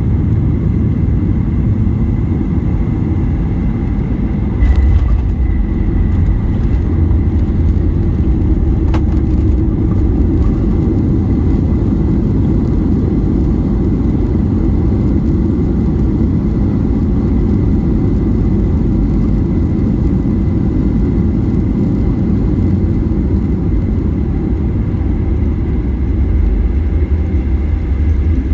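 Inside the cabin of a Boeing 737-800 with CFM56-7B engines during landing: a steady low rumble of engines and airflow, with a sudden thump about five seconds in.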